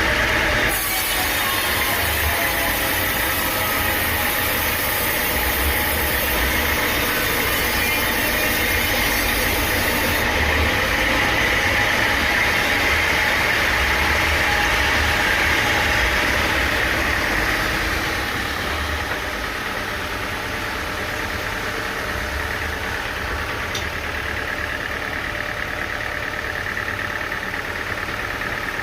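Sawmill running with its saw cutting through timber, a steady mechanical noise over an engine. The cutting sound fades about two-thirds of the way through, leaving the machine running more quietly.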